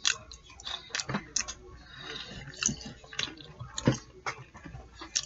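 Close-miked eating sounds: a person chewing fried fish nuggets and fries, with irregular wet mouth clicks and smacks.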